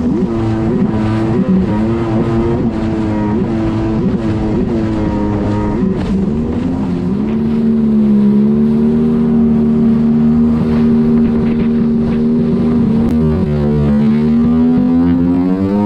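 Jet ski engine running under way. Its revs waver with the throttle for the first several seconds, then rise and hold at a steady high pitch from about halfway, and climb again near the end.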